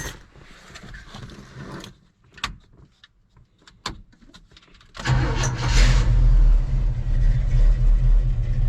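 Chevrolet El Camino's V8 engine started after sitting unused for a while: a few light clicks, then about five seconds in it cranks and catches with a short burst and settles into a steady idle.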